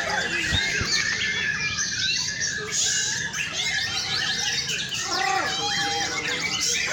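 Several white-rumped shamas singing at once, a dense, overlapping chorus of whistled phrases and chatter.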